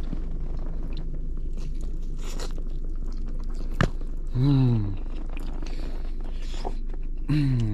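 A person chewing a mouthful of taco, with soft crunching, and two short "mmm" hums of enjoyment falling in pitch, one about halfway through and one near the end, over a steady low hum.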